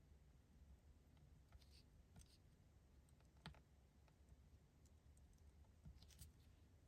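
Near silence, with a few faint clicks and light scratches from a pen working on card stock, drawing faux stitch lines on a paper bird.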